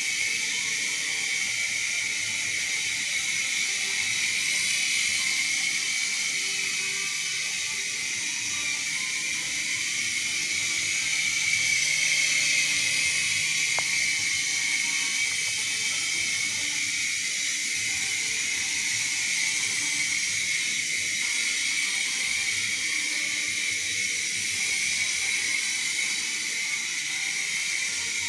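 X/B Blaze Elite toy indoor RC helicopter flying: a steady, high-pitched motor whine with rotor hiss, swelling slightly about twelve seconds in.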